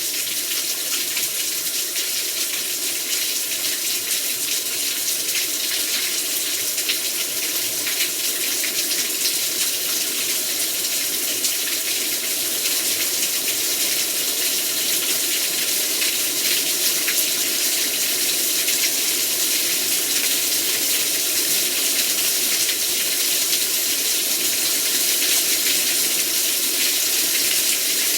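Heavy rain pouring down steadily: a dense, even hiss with fine ticks of individual drops, growing slightly louder toward the end.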